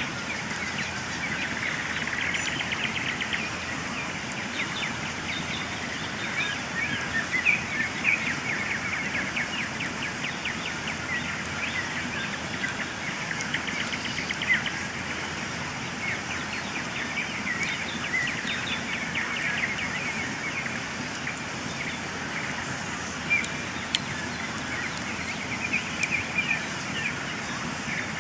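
Campfire crackling with occasional sharp pops, under a steady chorus of birds chirping and trilling.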